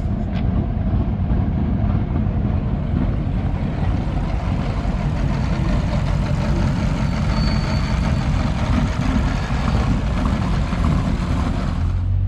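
A vehicle engine running steadily, its sound mostly a low, even rumble.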